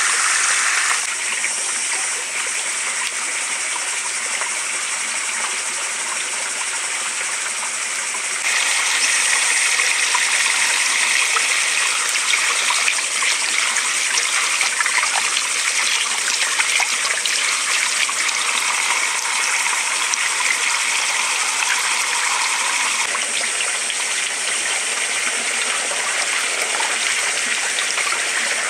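Steady rushing of running water. Its tone changes abruptly a few times, about a second in, about eight seconds in and near the end.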